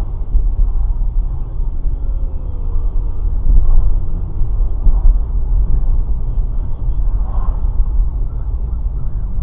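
Steady low rumble of a car on the move: engine and road noise as heard from inside the cabin.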